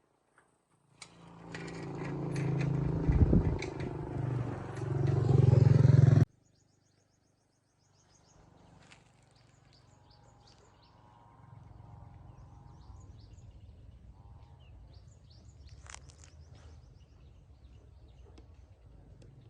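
A motor running loudly for about five seconds, with a low hum that builds, then cutting off abruptly. A fainter steady hum follows, with birds chirping.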